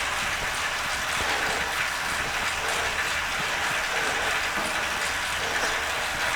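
Bicycle on an indoor trainer, its chain and trainer spinning with a steady whir as the rider pedals through a sustained effort.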